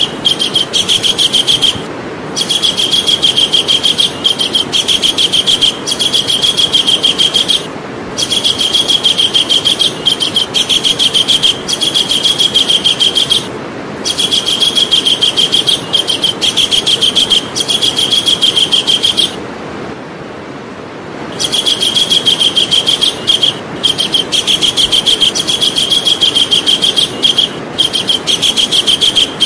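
Javan kingfisher calling: a fast, rattling series of sharp, high notes in bouts of several seconds, with short breaks between bouts and a longer pause about two-thirds of the way through, over a steady background hiss.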